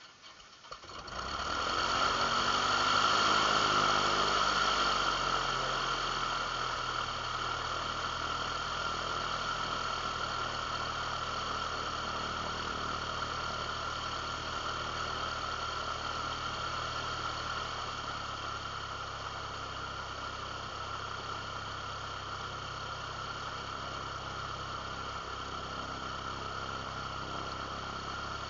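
Light aircraft piston engine starting about a second in, then settling into a steady idle.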